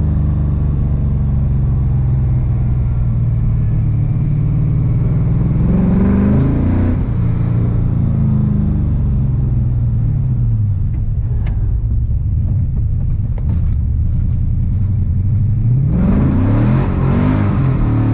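LS V8 engine in a BMW E46 running under load, heard from inside the car. About six seconds in, the revs climb hard and then drop back; near the end they climb again.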